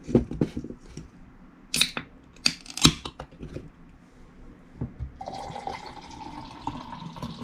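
A few sharp knocks and clinks of a glass bottle and glass being handled, then soju pouring from the bottle into a small glass in a steady stream for about two seconds, its pitch rising slightly as the glass fills.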